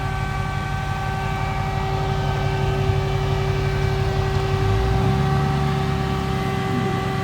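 A car engine running steadily, with a steady whine over it. The engine note changes about five seconds in.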